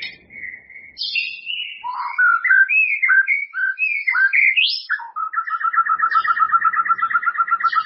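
White-rumped shama (murai batu) singing: a string of varied whistled notes sliding up and down, then, about five seconds in, a fast, even trill of repeated notes.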